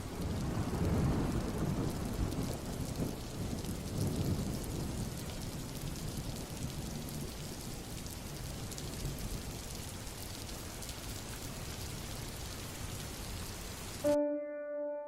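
Rain falling steadily, with a low rumble of thunder over the first few seconds. The rain cuts off suddenly near the end and piano notes begin.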